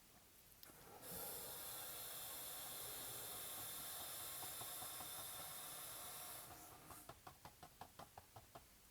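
Paintbrush worked against a canvas: a steady faint hiss of scrubbing strokes for about five seconds, then a run of quick light taps, about five a second, as the brush dabs in foliage.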